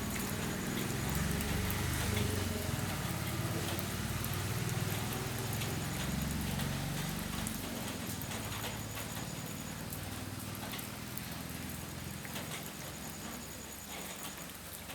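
Rain falling steadily, with many small drips ticking on hard surfaces. A low rumble is heard under it through the first half and fades away.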